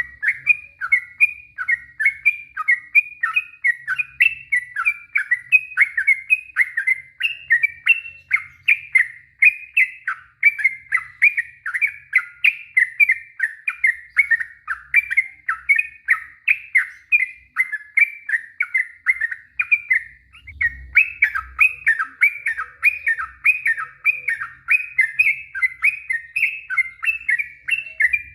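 Yellow-vented bulbul (trucukan) singing a long unbroken run of quick chattering, whistled notes, about four or five a second, with only a brief dip about two-thirds of the way through.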